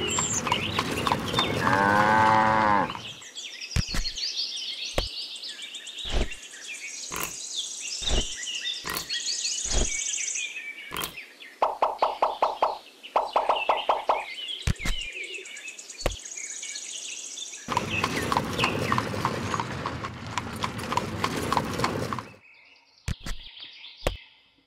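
Animal calls: a long call about two seconds in and a rapidly pulsing call around the middle, among scattered sharp clicks and high chirping.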